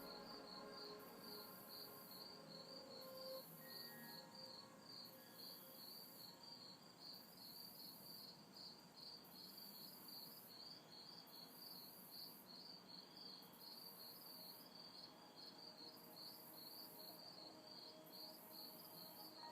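Faint night insect chorus: a steady, evenly pulsed high chirping with a higher buzz that switches on and off about every second.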